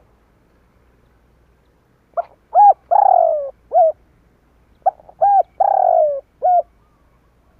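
Spotted dove cooing its song twice, each phrase two short coos, a long falling coo, then a short final coo.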